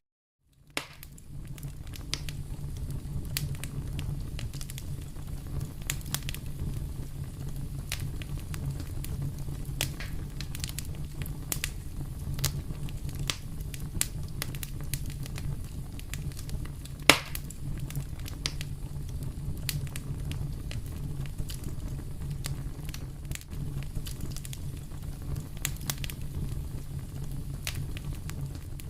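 Wood fire in a fireplace crackling steadily over a low rumble of flames, with many small pops and one sharp, louder pop a little past the middle.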